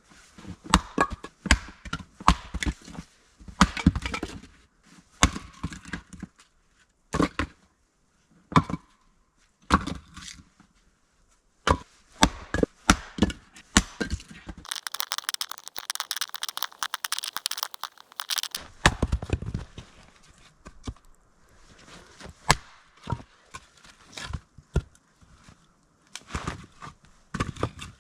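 Firewood being chopped and split with an axe: a long series of sharp chops and splitting cracks of wood in uneven clusters. About halfway through there are a few seconds of hissing, rasping noise.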